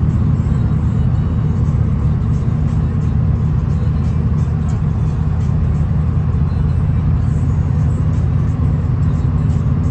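Steady low rumble of a V/Line VLocity diesel railcar running along the track, heard from inside the carriage, with faint light clicks over it.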